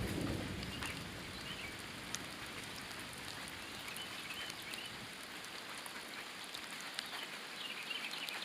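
Steady rain falling, an even hiss with scattered drop ticks. A low rumble of thunder dies away in the first second, and a few faint high chirps come and go.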